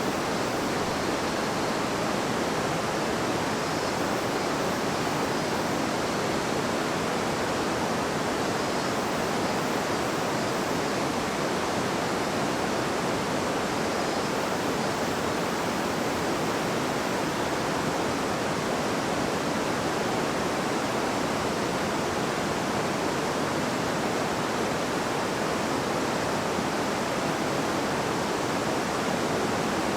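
A river babbling over rocks: a steady, unbroken rush of flowing water.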